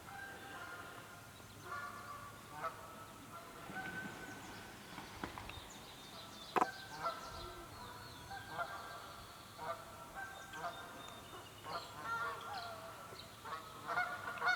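Canada geese honking over and over in short, repeated calls, agitated during a fight with a mute swan. A single sharp smack stands out about six and a half seconds in.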